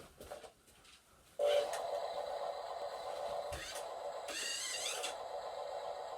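A small motor starts whirring about a second and a half in and runs on steadily, with a short rising whine laid over it near the middle.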